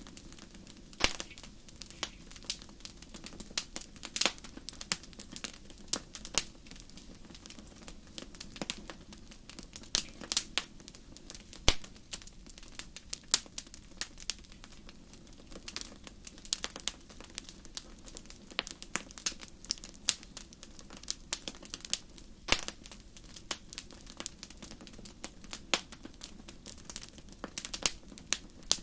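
Wood fire crackling in a fireplace: irregular sharp pops and snaps, a few louder ones, over a low steady hiss and rumble of the flames.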